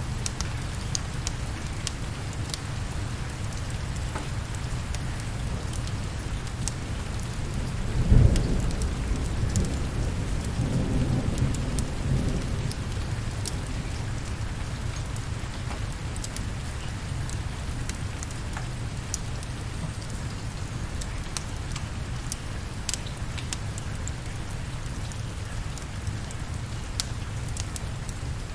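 Steady rain with a heavy low rumble underneath. A thunderclap breaks about eight seconds in and rolls on for around five seconds. Scattered sharp ticks sound throughout.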